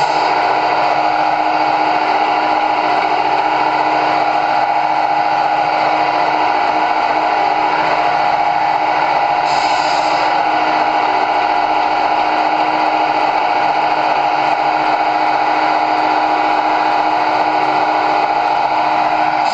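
Electric motor and gearing of a remote-control model truck running with a steady whine, with a short hiss about halfway through.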